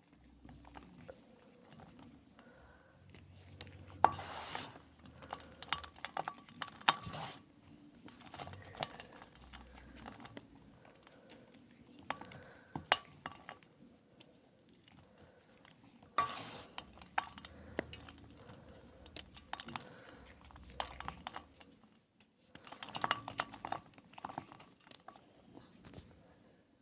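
A black ball of compressed gym chalk being crushed, crunching and crumbling in about half a dozen bursts of sharp cracks and crackles with short pauses between. The loudest cracks come about 4 and 7 seconds in.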